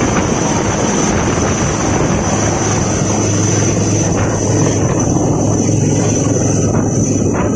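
Helicopter running close by, a loud, steady rotor and engine noise with a low hum, its upper hiss thinning out over the last few seconds.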